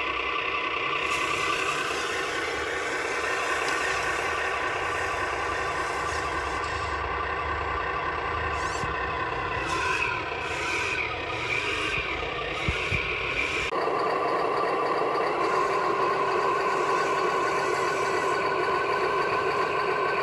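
Truck engine running steadily, with the sound changing abruptly about two-thirds of the way through.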